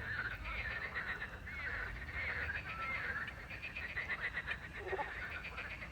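A chorus of frogs croaking, many calls overlapping, with rapid pulsing trills from about halfway in.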